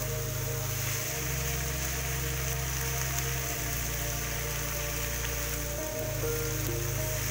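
Beef, onions and tomatoes sizzling steadily in a hot wok while being stirred, under background music.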